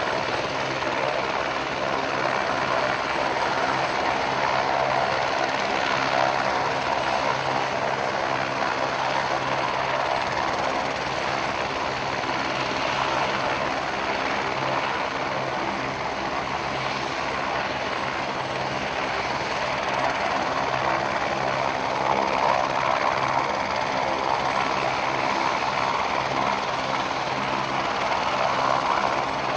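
Helicopter running steadily, an even, constant-pitched drone of rotor and engine throughout.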